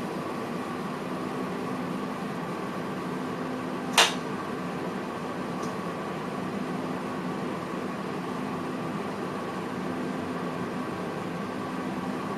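Steady hum inside the driver's cab of a VIRM electric train, with one sharp click about four seconds in.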